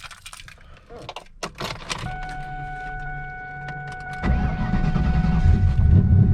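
Scattered clicks and rattles, then a steady whine with a low hum from about two seconds in. About four seconds in, the twin-turbo Ford Mustang Cobra's V8 starts and runs loudly.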